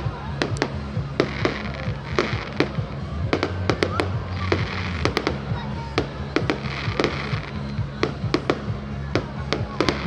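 Fireworks going off in quick succession: a run of sharp bangs, a few a second, with crackling, over music playing underneath.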